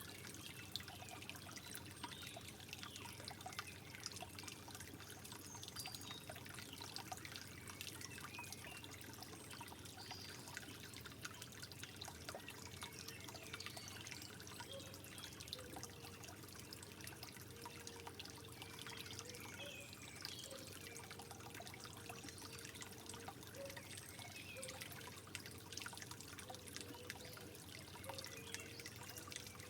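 Water trickling and dripping steadily, with many small plinks and gurgles.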